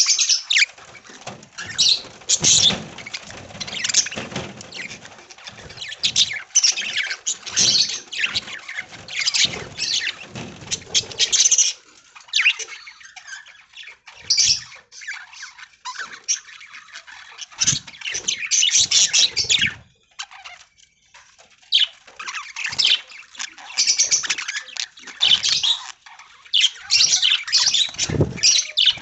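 A flock of budgerigars chattering and chirping, with wing flaps and scratchy knocks in among them. The chatter thins out for a few seconds near the middle, then picks up again.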